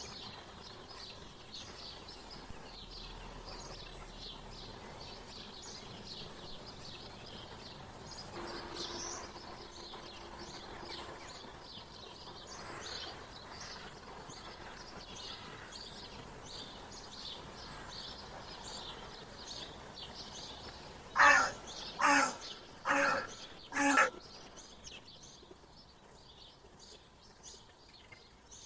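Wild birds chirping: a steady run of short, high chirps throughout, with four loud, harsh calls, each about a second apart, a little over twenty seconds in.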